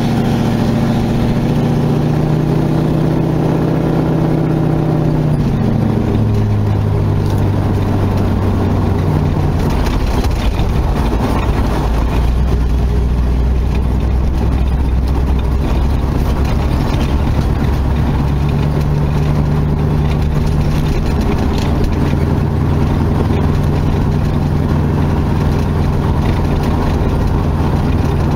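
Dodge Charger's engine running as the car drives along, heard loud from the hood. Its note drops about five seconds in as the car eases off, then climbs again past the middle.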